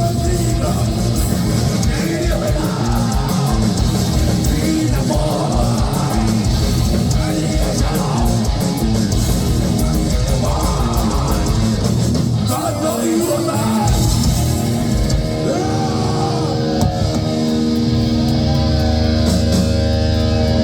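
Heavy metal band playing live, with distorted electric guitars and a fast, pounding bass drum. About two-thirds of the way through the drumming drops away and long, sustained guitar chords ring on.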